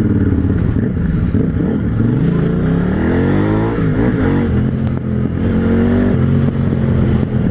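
Motorcycle engine accelerating through the gears, its pitch climbing and dropping back at each upshift. Near the middle a second engine note crosses it, another vehicle passing close by.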